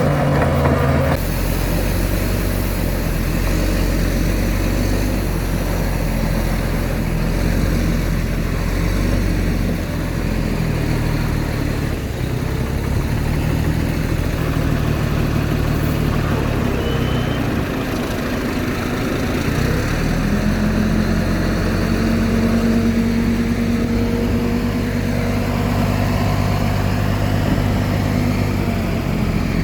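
Heavy diesel engine of earthmoving machinery running steadily. The sound changes abruptly about a second in, and the engine note rises and strengthens about two-thirds of the way through.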